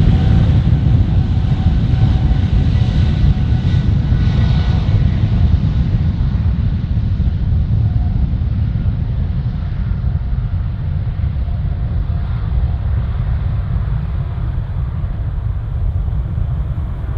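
Boeing 777-300ER's twin GE90 turbofans at takeoff power: a loud, deep jet rumble with a faint whine in the first few seconds, slowly fading and dulling as the jet moves away.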